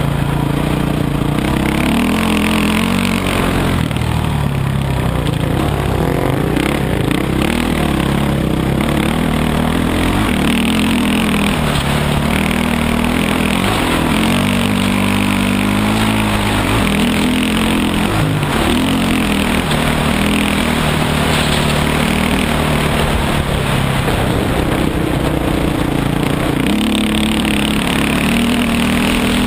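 Dirt bike engine running under way, its pitch rising and falling again and again as the throttle is opened and closed and the gears change.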